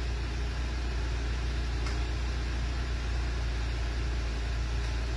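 Renault Symbol 1.2 16v four-cylinder petrol engine idling steadily from cold, heard from inside the cabin. The idle holds stable with no cold-start vibration, which the mechanic presents as the result of his fix: a change of engine oil.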